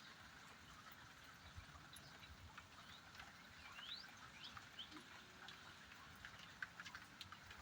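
Faint outdoor ambience: a soft steady hiss with scattered light ticks, and a few short rising bird chirps near the middle.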